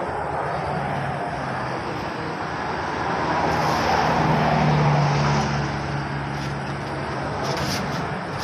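A road vehicle passing by, its engine hum and tyre noise swelling to a peak about halfway through and then easing off.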